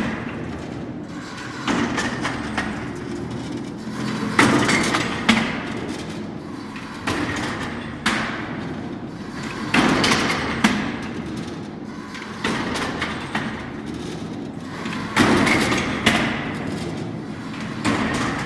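Automatic brick-making machine running through its pressing cycle: a heavy thud and clatter about every two and a half to three seconds, each followed by a rattle that fades.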